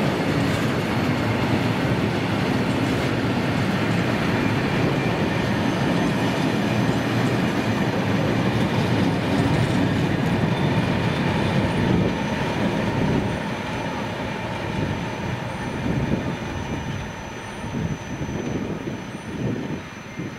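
Freight train passing close by, its wagon wheels rattling and rumbling on the rails. Loud for about the first twelve seconds, then falling away into a slower run of wheel clicks over the rail joints.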